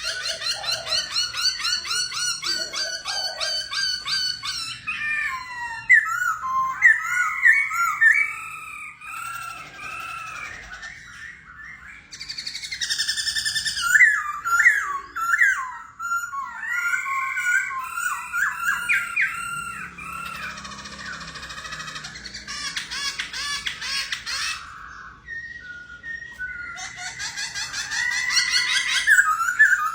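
A songbird singing without pause in fast, varied phrases: rapid repeated trills alternating with looping whistled notes.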